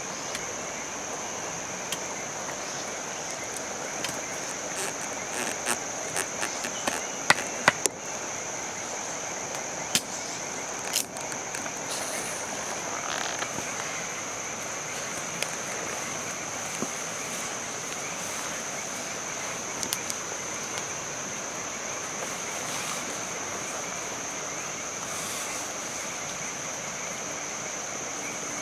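Frogs croaking and insects calling in a steady high-pitched chorus, with a run of sharp clicks and knocks between about four and eleven seconds in.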